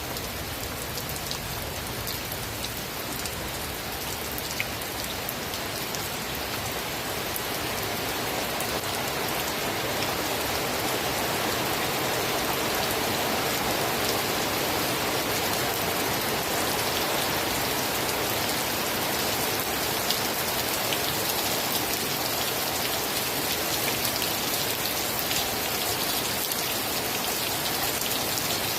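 Steady rain falling, with scattered sharp drop ticks, growing a little louder over the first ten seconds and then holding even.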